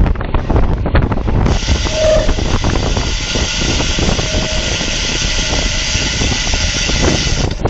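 Wind buffeting the microphone of a camera riding on a road bike at race speed. A steady hiss joins it about a second and a half in and stops just before the end.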